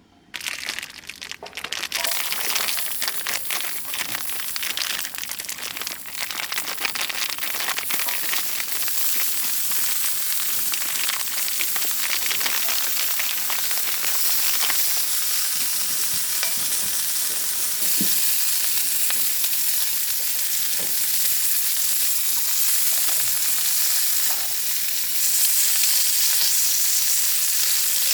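Food frying in a hot pan, sizzling loudly with many fine crackles. The sizzle starts suddenly about half a second in, as food goes into the hot pan, and then keeps up steadily, a little louder near the end.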